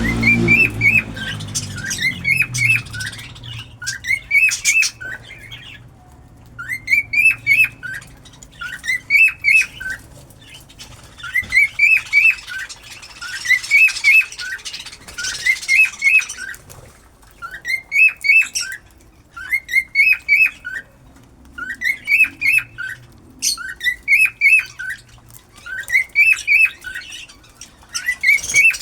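Cockatiel chirping in short repeated phrases of quick rising notes, about one phrase every two seconds.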